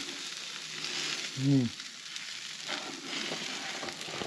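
Food frying in a hot pan, a steady sizzle with a few light clicks. A short voiced sound, like a brief hum, comes about a second and a half in.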